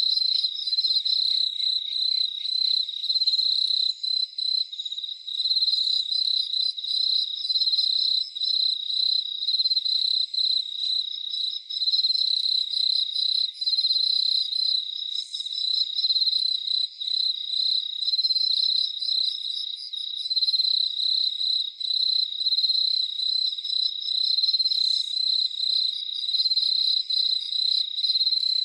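Crickets chirping in a continuous, high-pitched trill that pulses rapidly, with no low sounds at all.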